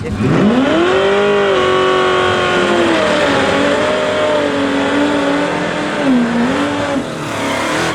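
Drag-racing engine at full throttle launching off the line: the revs sweep sharply up, then hold high and loud as it runs down the strip, dipping briefly twice.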